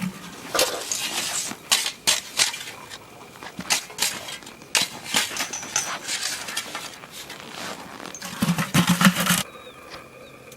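Irregular crunching and scraping in hard-packed snow, a few sharp strokes a second, as dog-yard waste is scooped and trodden around. Near the end comes a short low sound, then the crunching stops abruptly.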